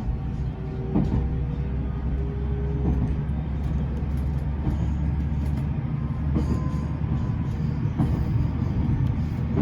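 Running noise heard inside a JR Central 373 series limited express train: a steady low rumble of wheels on rail, with a few sharp knocks and a faint whine from the traction motors.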